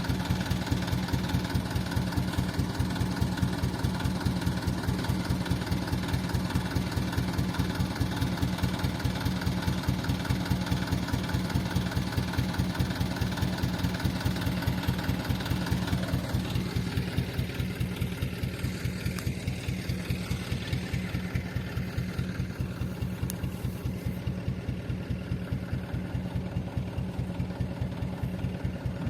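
A truck engine idling steadily with an even pulsing beat; the higher hiss and clatter die down about two-thirds of the way through.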